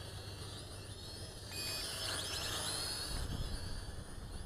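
Small toy quadcopter's electric motors and propellers whining in flight, the pitch sliding up and down as the throttle changes and growing louder for a second or two midway. A short beep about one and a half seconds in.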